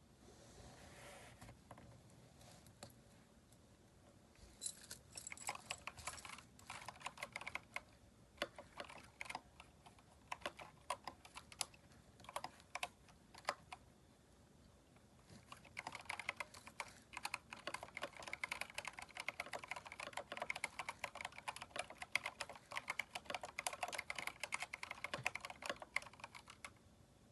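Typing on a Keychron K4 mechanical keyboard fitted with swapped keycaps: rapid key clicks. It starts a few seconds in, pauses briefly in the middle, resumes as fast continuous typing and stops just before the end.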